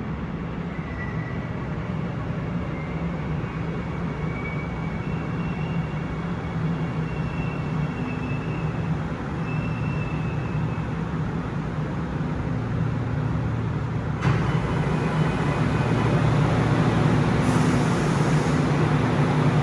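Seoul Subway Line 9 electric train pulling away, its motor whine climbing in pitch in short steps as it gathers speed over steady rumbling running noise. The running noise grows louder throughout and jumps up sharply about 14 seconds in.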